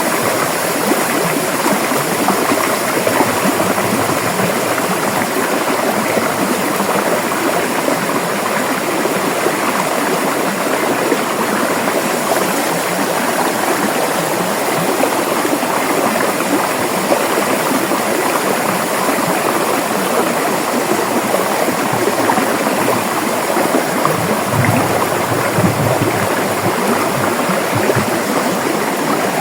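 River water flowing steadily over rocks, an even rushing and gurgling with a slightly deeper surge of low rumble about 24 seconds in.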